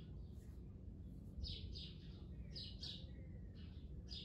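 A small bird chirping faintly: short high chirps, mostly in pairs, repeating about once a second over a low steady background hum.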